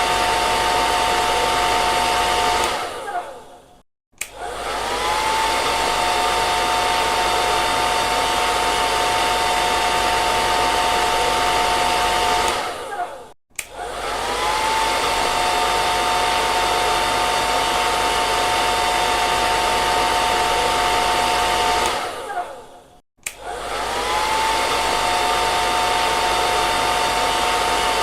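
Hair dryer running: a steady rush of air with a motor whine. Three times it cuts out and starts again; each time the whine falls as it stops and rises as it spins back up.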